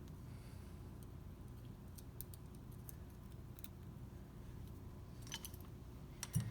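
Faint, scattered light clicks of metal parts being handled as a piston and ring compressor are worked on, over a low steady hum, with a soft thump near the end.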